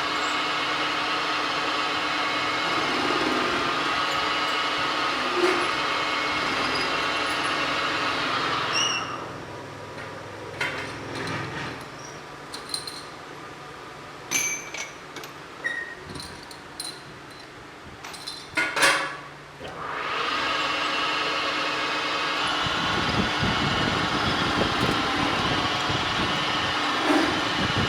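A metalworking machine runs steadily with a whining hum, then winds down about nine seconds in. For about ten seconds there are scattered metal clinks and taps, and then the machine starts up and runs steadily again.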